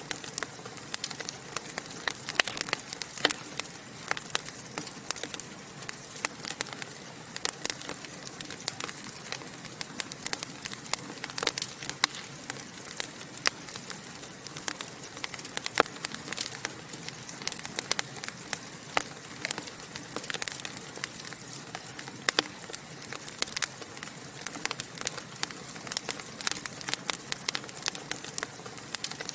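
Fire in a fireplace crackling and popping, with dense, irregular sharp pops over a soft steady hiss.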